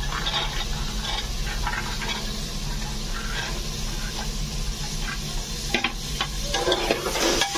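Soaked kidney beans dropped by hand into hot oil and masala in an aluminium pressure cooker, sizzling, with small clicks as handfuls land. From about six seconds in, a metal spatula scrapes and knocks against the pot as the beans are stirred, over a steady low hum.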